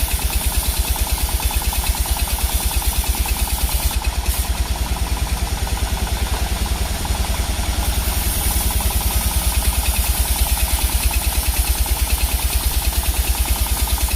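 Sawmill machinery running steadily with a fast, even, low throb.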